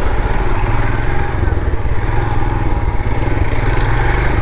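Royal Enfield Himalayan's single-cylinder engine running steadily under way on a rough off-road trail.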